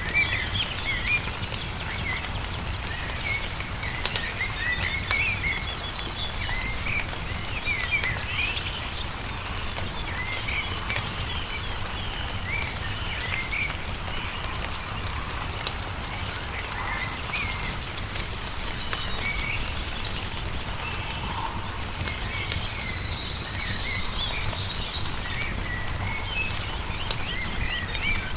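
Songbirds chirping and twittering in short, quick calls throughout, over scattered sharp pops and crackles of a wood fire and a steady low rumble.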